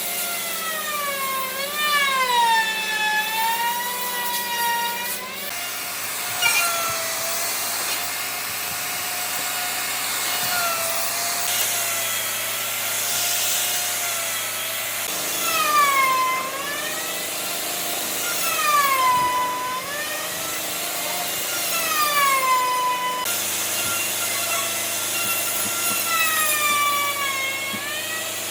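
Electric power tool working wood: its motor whine dips in pitch as it bites under load and climbs back, several times over, in a few spliced-together stretches.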